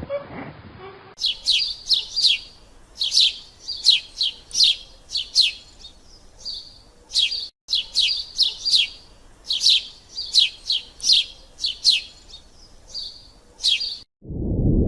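A small songbird chirping in quick runs of short, high, falling chirps. Near the end the birdsong cuts off and a loud low rumbling noise starts suddenly.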